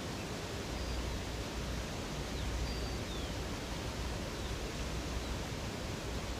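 Rushing river water, a steady unbroken rush, with a few faint, short, high bird chirps scattered over it.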